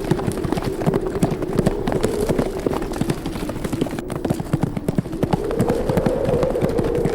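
Horses galloping, a dense run of hoofbeats, over a howling wind whose pitch sinks and then rises again in the second half.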